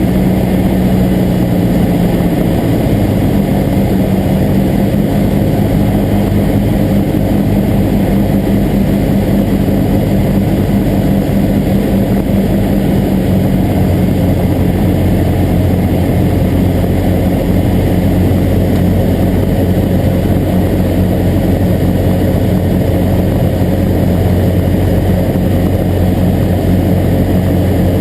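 Cessna 172's four-cylinder piston engine and propeller running steadily and loud. The engine note changes about halfway through.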